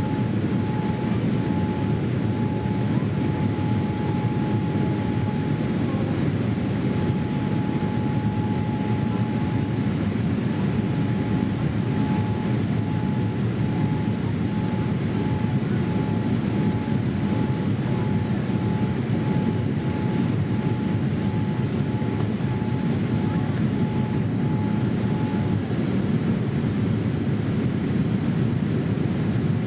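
Boeing 787-8 passenger cabin noise in flight: a steady, even rush of engine and airflow. A faint high steady tone runs through it, turns into a regular pulsing beep about twelve seconds in, and stops near the end.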